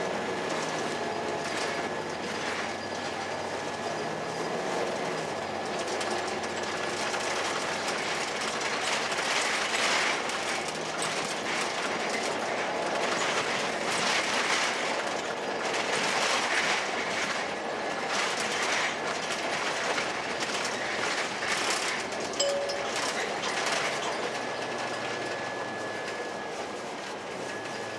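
2002 Blue Bird CS transit bus under way, its Cummins ISC diesel running while the body and fittings rattle and knock over the road, with a thin steady high whine above.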